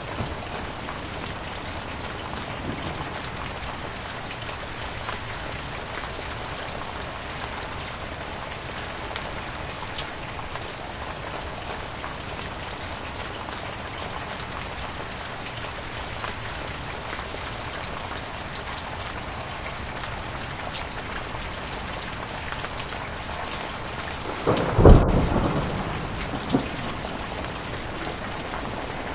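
Heavy rain falling steadily, with scattered sharp drop hits. About 25 seconds in, a sudden loud clap of thunder dies away over about two seconds.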